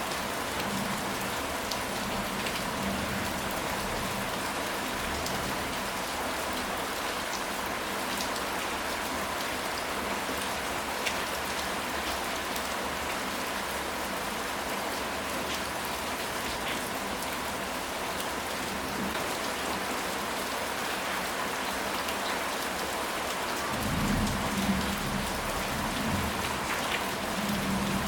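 Steady rainfall, an even hiss with scattered drop ticks. A brief low rumble swells about 24 seconds in.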